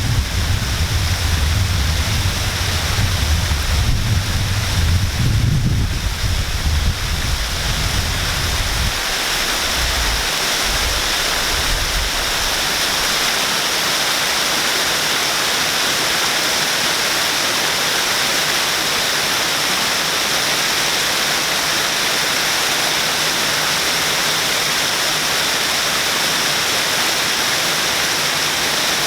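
Waterfall: falling water giving a steady, loud rushing hiss. An irregular low rumble, like wind buffeting the microphone, sits under it for the first several seconds and dies away about ten seconds in.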